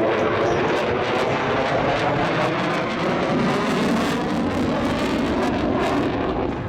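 F-22 Raptor's twin jet engines running loud and steady as the fighter flies its display, with a crackling edge.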